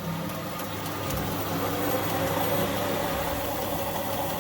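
Indesit 1400-spin washing machine running in its spin-and-drain stage: the motor turning the drum gives a steady whine over a mechanical rumble, getting a little louder about a second in.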